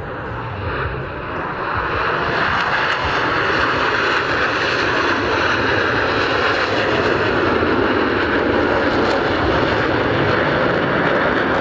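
Jet noise from the Blue Angels' F/A-18 Hornets flying by in formation: a loud rushing sound that swells over the first two seconds, then holds steady.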